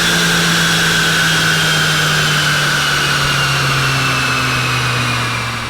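Stock BMW F80 M3's twin-turbo straight-six on a chassis dyno winding down after a pull, its engine note and a high whine both falling slowly and steadily in pitch, easing off near the end.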